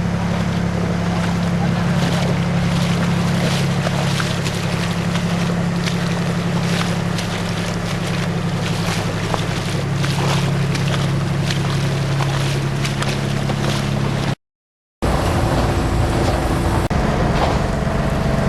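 Large diesel engine running steadily under a rushing, crackling noise. The sound cuts out for half a second near the end, then resumes with a slightly different engine note.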